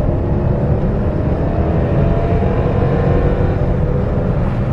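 Chrysler 300's Hemi V8 pulling hard under acceleration, heard from inside the cabin: a steady, slowly rising engine drone as the car gains speed.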